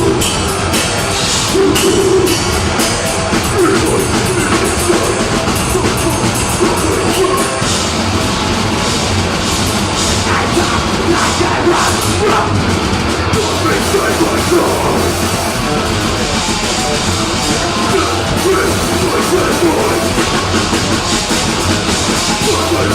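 Deathgrind band playing live at full volume: heavily distorted guitar and bass under fast, dense drumming, in an unbroken wall of sound.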